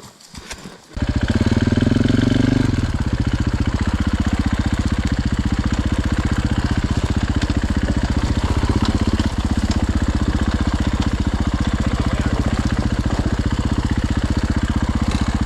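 Dirt bike engine running at low, steady revs close to the microphone. It comes in abruptly about a second in, with a slight change in its note near three seconds.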